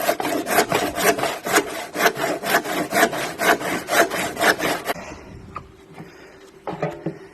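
Saw cutting through the sealed two-piece plastic tub of a washing machine: fast, even back-and-forth strokes, about four a second, stopping about five seconds in.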